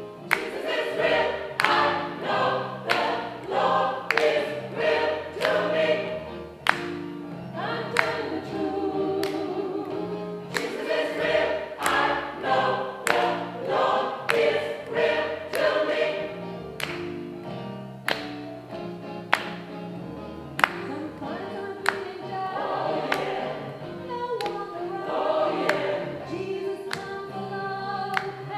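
Gospel choir singing with accompaniment: sustained low bass notes under the voices and a steady beat of sharp percussive strokes.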